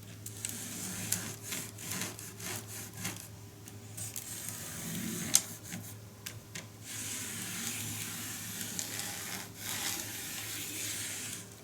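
Rubbing and scrubbing on N-gauge model railway rails as they are cleaned, in stretches of a few seconds with small clicks and one sharper knock about halfway. A faint steady hum runs underneath.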